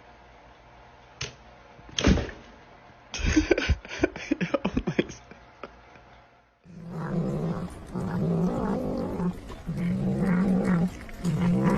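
A couple of knocks and a quick rattling clatter. Then a pet animal growls in long drawn-out calls, about four in a row, each lasting roughly a second.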